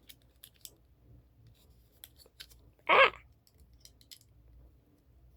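Small hardware being handled while a cabinet latch is fitted: faint scattered clicks and taps, with one louder, short, scissor-like snap about three seconds in.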